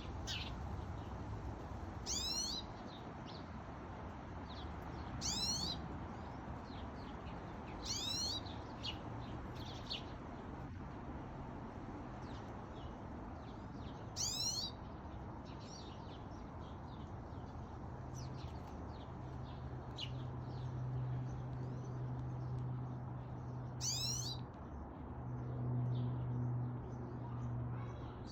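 Small finches, pine siskins, calling at a feeder: a loud, quick run of high sweeping notes every few seconds, with softer chirps in between. A steady low hum sits underneath and grows louder in the second half.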